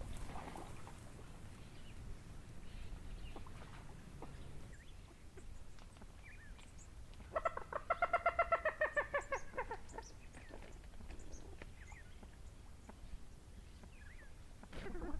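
A coot calling: a fast, loud run of nasal chattering notes lasting about two and a half seconds in the middle, amid faint scattered chirps from other birds.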